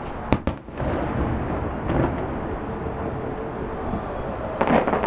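Fireworks shells bursting: a sharp bang about a third of a second in, a softer boom about two seconds in, and a quick cluster of bangs near the end, over a steady background rumble.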